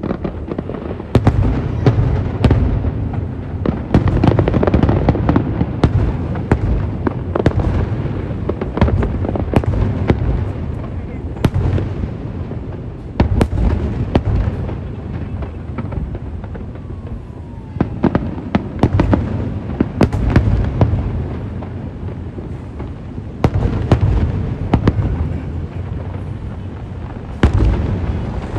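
Aerial fireworks bursting in rapid, continuous succession: many sharp cracks over a steady deep rumble of booms, with a faint falling whistle about two-thirds of the way through.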